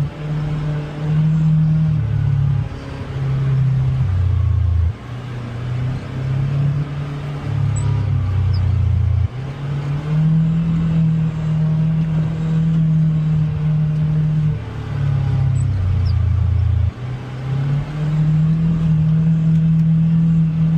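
Polaris Xpedition UTV engine running under load, a low drone whose pitch steps up and down every second or two as the throttle is worked on and off, with a few brief drops in loudness.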